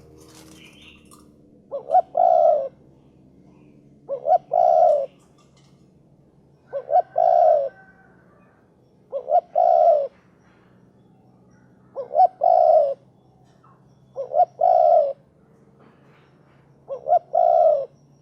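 Spotted dove (derkuku) cooing: a three-note phrase, two short notes then a longer one, repeated seven times about every two and a half seconds.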